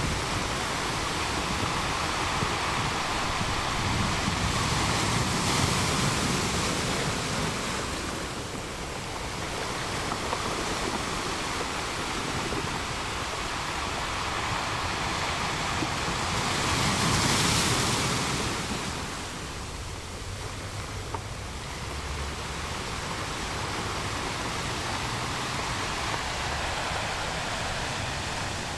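Small waves breaking and washing up on the shore: a continuous rush of surf that swells several times, loudest about two-thirds of the way through, then eases off a little.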